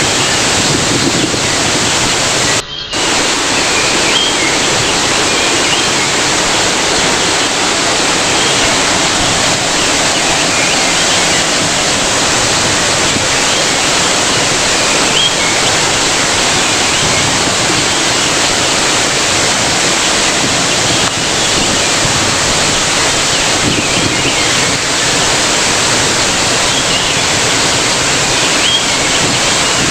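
Waterfall: a steady, loud rush of falling water, broken by a momentary dip a little under three seconds in.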